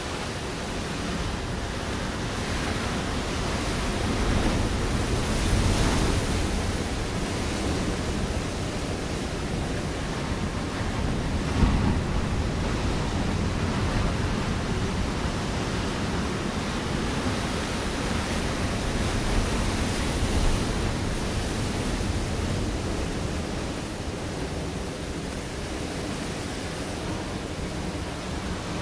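Ocean waves breaking on a rocky shore: a continuous wash of surf that swells several times, with a sharp crash about twelve seconds in.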